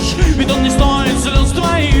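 Rockabilly band playing live, with a steady drum beat; no words are sung.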